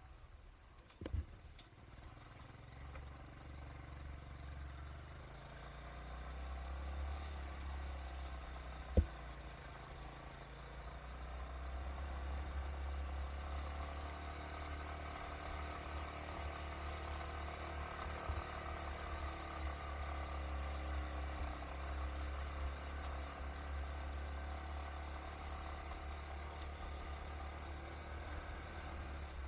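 A vehicle on the move: a steady low engine and road rumble that builds over the first several seconds and then holds, with two sharp knocks, about a second in and about nine seconds in.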